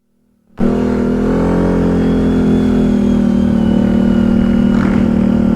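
A motor running steadily with an even, pitched hum. It cuts in suddenly about half a second in, dips slightly in pitch over the next second, then holds steady.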